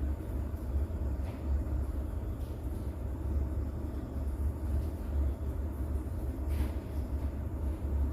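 Rain-and-thunder sleep ambience with a steady deep rumble underneath, and a few faint ticks of drops over it.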